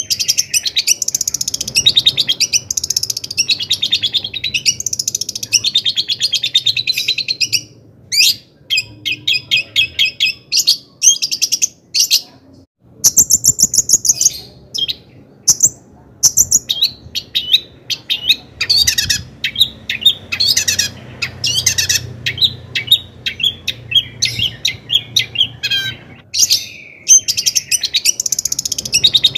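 Long-tailed shrike (cendet) singing a fast, varied song of chattering and trilling phrases, broken by a few short pauses.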